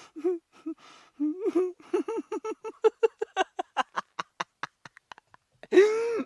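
A person laughing hard: a quick run of short, rhythmic 'ha' pulses, then a louder, drawn-out voiced note near the end.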